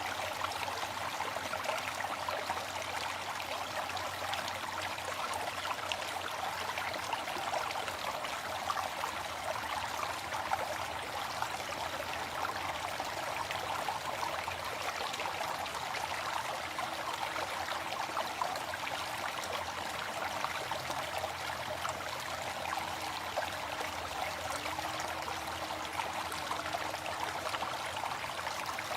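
Waterfall: falling water rushing and splashing steadily, an even hiss with little deep rumble.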